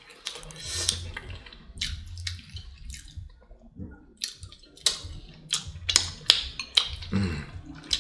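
Close-miked chewing, with wet mouth smacks and short clicks as a mouthful of rice and meat is eaten.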